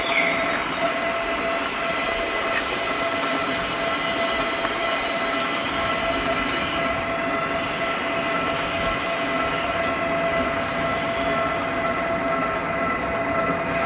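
A metalworking machine running steadily while cutting steel pipe: a constant high whine with several steady tones over a grinding mechanical noise.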